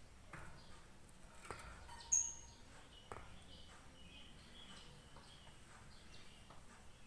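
A blue-and-white lovebird chirping: a string of short, high chirps, with one loud, sharp, high-pitched call about two seconds in. A couple of faint clicks fall in among the chirps.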